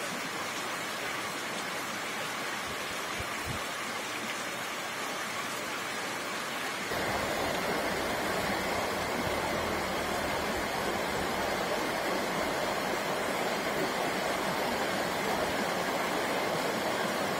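Heavy rain pouring down in a steady hiss. About seven seconds in it suddenly gets louder and fuller, then stays even.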